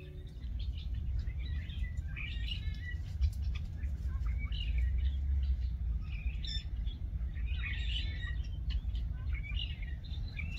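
Small birds chirping in short, scattered bursts, several clusters of high calls, over a steady low rumble.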